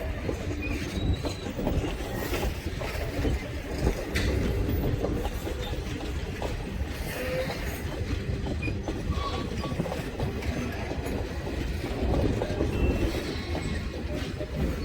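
Train hauled by steam locomotive N&W 475 rolling past, with a steady low rumble, wheels clattering over rail joints and brief wheel squeals.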